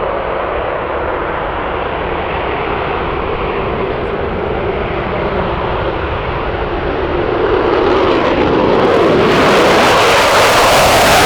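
Aircraft engines running at full power on a departing airplane, a steady loud rush that swells louder and brighter near the end as the plane draws closer.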